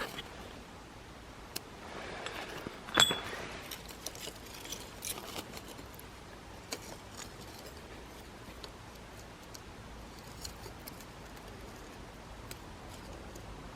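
Acacia-wood campfire burning down to embers, with faint scattered crackles and ticks and one louder sharp click about three seconds in.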